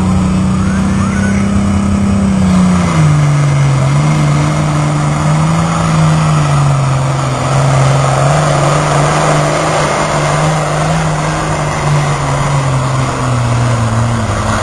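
Truck pull engine running hard at high revs under load. Its pitch drops about two and a half seconds in, then holds lower and wavers as it drags on.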